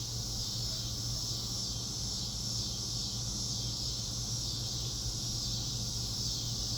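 Steady outdoor insect chorus, a continuous high-pitched hiss of chirring, over a low steady hum.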